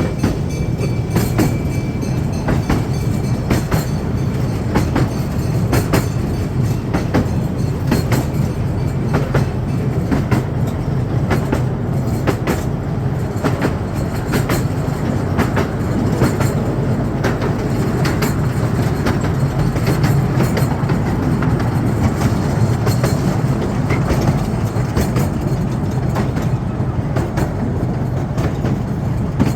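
Miniature railway train running along its track: a steady rumble of the wheels with frequent irregular clicks as they pass over the rail joints.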